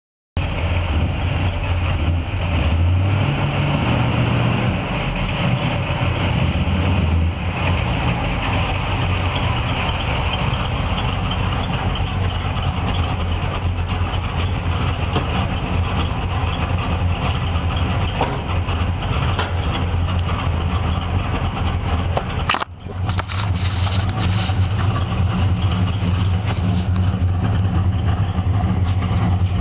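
1974 Dodge Dart Sport's engine running at a steady idle with a deep rumble, its first run after sitting since fall. It cuts in suddenly just after the start, with a brief break about three-quarters of the way through.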